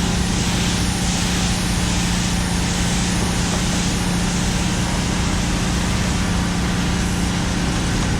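A motor running steadily with a constant hiss over its hum.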